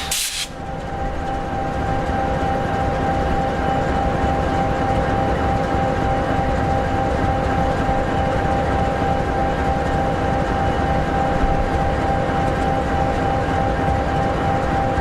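EMD 16-710G3B two-stroke turbocharged V16 diesel of an SD60E locomotive idling steadily: a constant low rumble with a steady whine on top.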